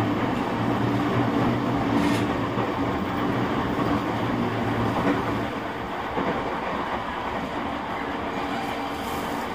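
Running sound of an E231 series 1000-番台 commuter train with updated traction equipment, heard inside the car: steady wheel and rail noise with a low steady motor tone that fades out about five and a half seconds in.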